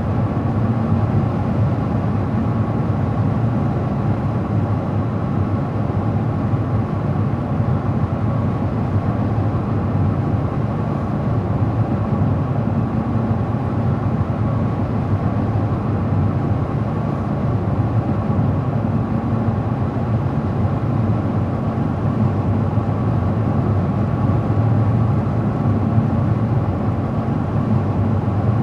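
Car driving at a steady speed on the open road: constant low tyre and engine rumble with no change in pace.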